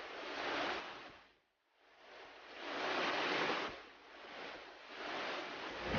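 Rushing water of a mountain valley stream, a steady hiss that swells and fades, dropping out briefly about one and a half seconds in before rising again.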